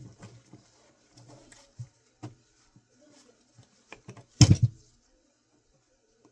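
Light clicks and knocks of small metal and plastic hard-drive parts being handled and pried apart, with one louder clatter about four and a half seconds in.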